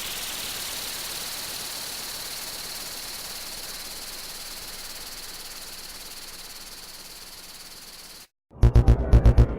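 A steady hiss with a faint high whine, slowly fading, cuts off about eight seconds in. After a brief silence, a fast, loud, throbbing bass pulse begins near the end, the start of the next music track.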